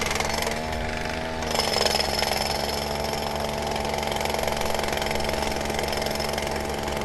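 A steady mechanical drone with a constant pitched hum, like a motor or machine running in the workshop, shifting slightly about one and a half seconds in.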